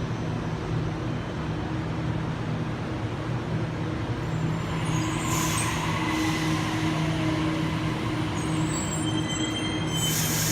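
Sydney Trains Waratah double-deck electric train at the platform: a steady electrical hum, a faint falling whine about five seconds in, and bursts of air hiss around then and again near the end.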